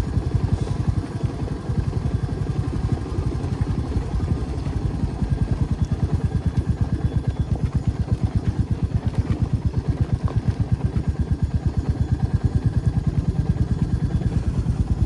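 Motorcycle engine running steadily at a cruise, with a fast, even low thudding from its firing pulses.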